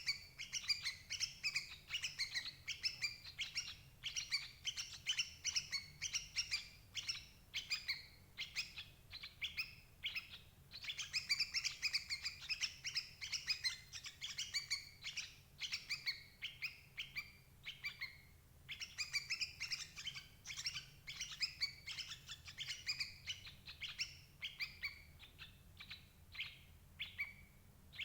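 Yellow-vented bulbuls calling: long runs of rapid, chattering chirps, with brief lulls about ten and nineteen seconds in.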